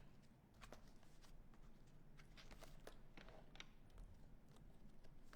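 Near silence: faint room hum with scattered light clicks and taps, paint markers being picked up and handled.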